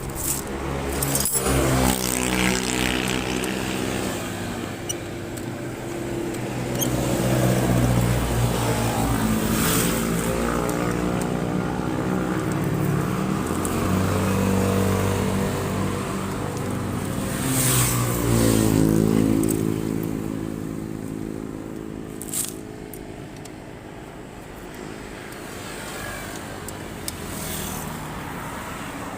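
Motorcycle engine running, revved up and let back down several times, then settling lower after about twenty seconds, with a few sharp clicks.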